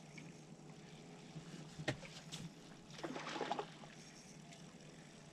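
Faint water sounds around a small fishing boat, with a single sharp click about two seconds in and a short splashing rustle about three seconds in.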